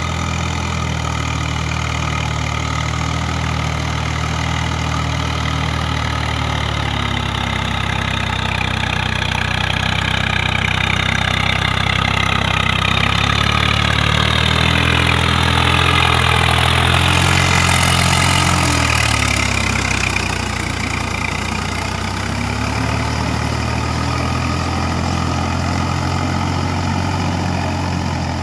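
Tractor engine running under load in mud. About a third of the way in it grows louder and its pitch climbs and wavers for several seconds, then it eases back to a steadier run.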